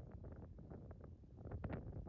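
Low wind rumble buffeting a phone microphone, with a few faint scattered clicks and ticks, the most of them about one and a half seconds in.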